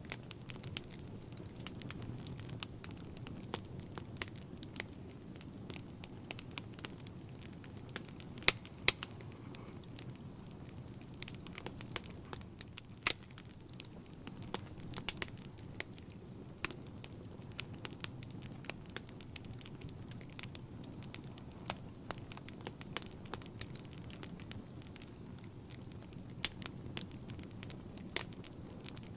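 Wood fire burning in a fireplace, with a steady low rumble of flames under irregular crackling and snapping, and a few louder pops.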